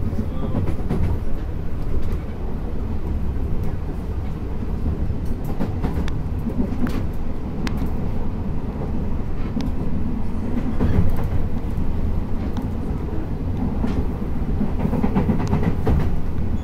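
Former Tokyu 8500 series electric multiple unit under way, heard from inside the car. There is a steady rumble of wheels on rail, with scattered clicks of wheels passing over rail joints.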